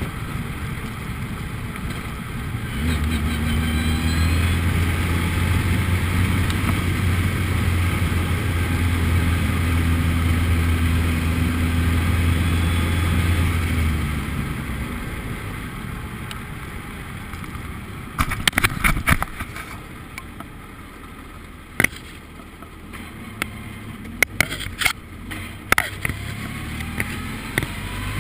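Formula Ford race car engine holding steady revs, then dropping away. Partway through comes a string of sharp clicks and knocks, and near the end the revs rise again as the car accelerates.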